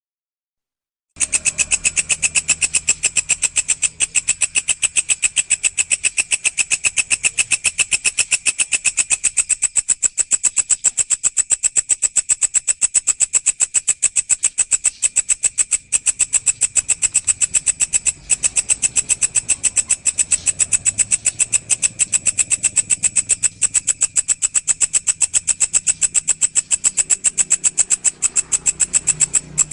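A walang (an Indonesian singing grasshopper/katydid type insect) stridulating in a continuous, rapid, evenly pulsed high-pitched buzz, starting after a brief silence about a second in.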